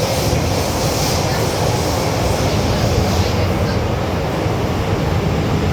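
MTR M-Train (Metro-Cammell electric multiple unit) running on the Tseung Kwan O line, a steady, loud rumble of wheels and running gear with no breaks. A higher hiss over the rumble fades out about three and a half seconds in.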